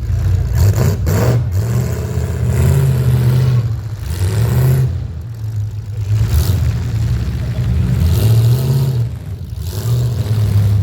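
Demolition derby vehicle engines running and revving, the engine note swelling and easing off every second or two.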